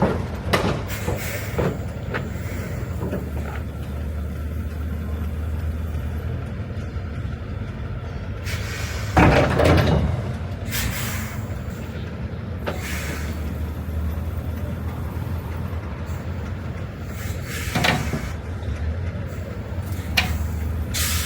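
Heavy oilfield truck engine running steadily, with a loud burst of noise about nine seconds in and a shorter one a little before the end.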